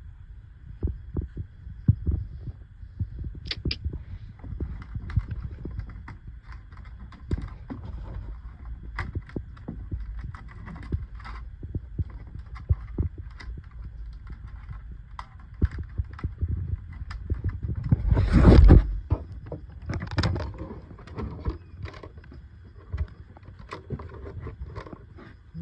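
Hands working gear into a kayak: irregular knocks, taps and low thumps of parts being handled and fitted, with a louder burst of scraping and rustling about 18 seconds in and another near 20 seconds.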